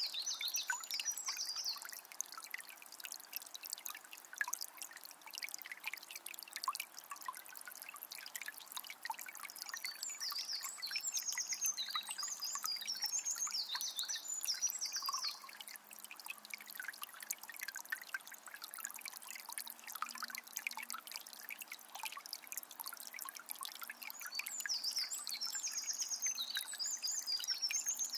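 Forest river trickling and splashing steadily, with a songbird singing bouts of quick high phrases at the start, again about ten seconds in, and near the end.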